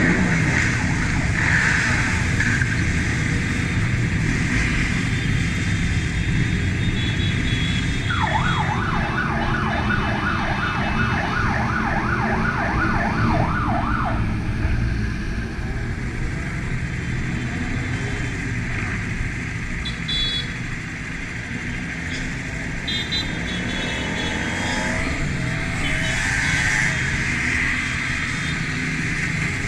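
Motorcycle riding in a convoy, its engine and the wind running steadily, with many bikes around. About eight seconds in, a siren yelps rapidly, about three wails a second, for some six seconds; a few short horn beeps come later.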